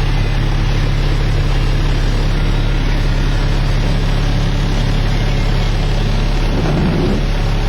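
Caterpillar C-13 diesel engine of a Kenworth W900L dump truck running steadily, with a brief louder rumble near the end.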